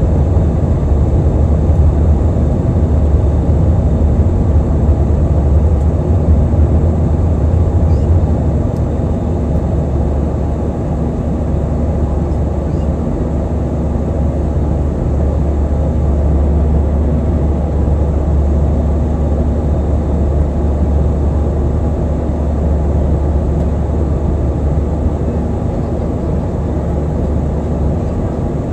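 Airliner cabin noise: a steady low rumble of jet engines and rushing air, easing slightly about eight seconds in.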